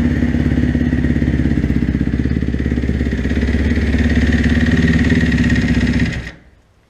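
2012 Kawasaki KX250F's four-stroke single-cylinder engine running steadily at idle, not yet warmed up after a cold start, then shut off about six seconds in, the sound dying away quickly.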